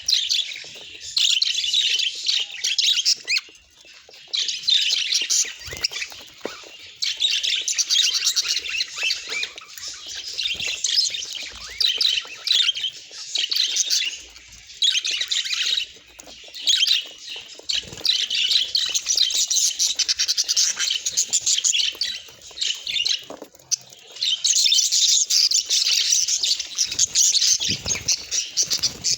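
Budgerigars chattering and warbling: rapid high squawks and chirps in bouts of a few seconds, broken by short pauses.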